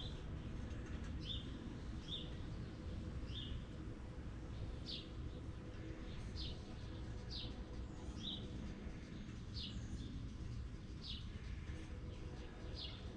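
A small bird chirping over and over, short high chirps about once a second, some sliding downward, over a low steady background rumble.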